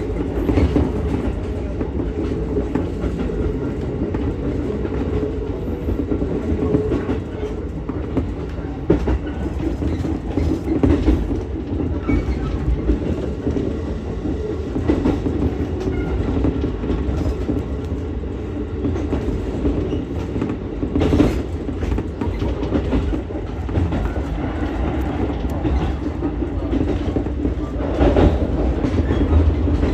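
Ichibata Electric Railway 7000-series electric train running along the line, heard from inside the car: a steady rumble of wheels on rail, with a sharp click over a rail joint now and then.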